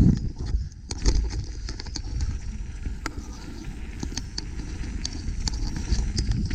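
Mountain bike rolling fast over a rough trail: wind buffets the microphone in a steady low rumble while the bike rattles and clicks over bumps, with a heavy thump right at the start.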